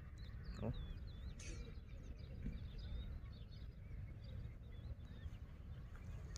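Faint, scattered bird chirps over a low, steady rumble of outdoor background noise.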